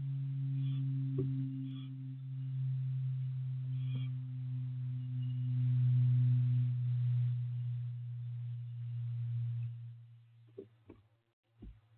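A steady low hum that stops about ten seconds in, followed by a few faint knocks.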